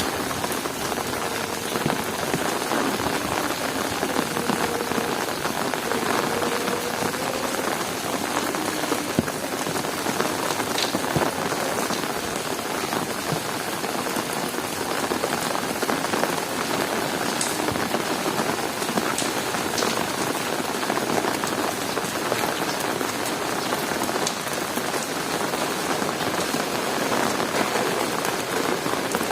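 Heavy rain falling steadily, a dense unbroken patter with occasional sharper drop hits.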